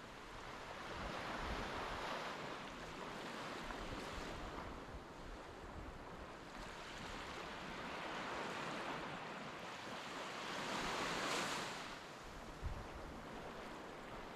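Surf washing onto a beach in repeated swells of rushing noise, the loudest about eleven seconds in, with wind buffeting the microphone.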